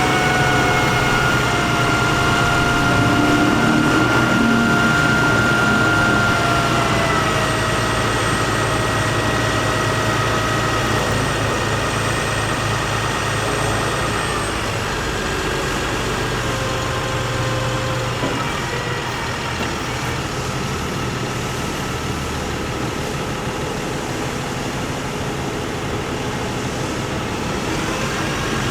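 International DT466 diesel truck engine running steadily, with a whine over it that drops in pitch in a few steps.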